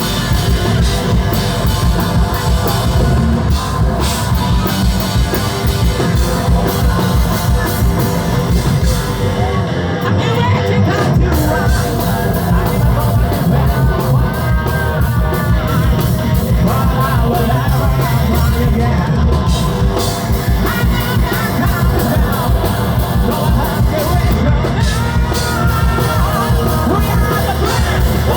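Live hard rock band playing loudly: drum kit, bass and guitars under a singer's voice.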